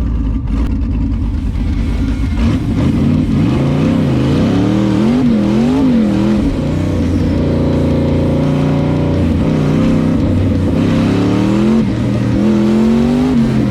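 LS-swapped BMW E36's 5.3-litre Chevrolet V8 being driven hard. Its pitch rises and falls quickly several times as the throttle is worked on and off, holds steadier for a couple of seconds in the middle, then climbs again near the end.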